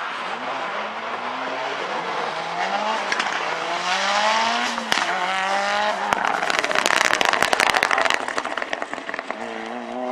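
Mitsubishi Lancer Evo race car's turbocharged four-cylinder engine accelerating hard through the gears, its pitch climbing in each gear and dropping back at the upshifts. Midway it turns into a harsh, crackling noise for a couple of seconds, then climbs in pitch again near the end.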